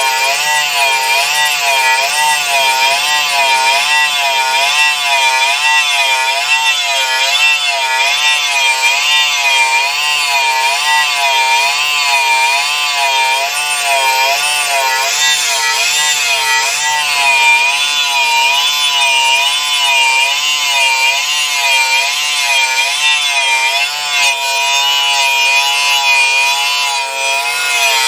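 Steady, rhythmic sawing, its pitch rising and falling with each stroke a little more than once a second.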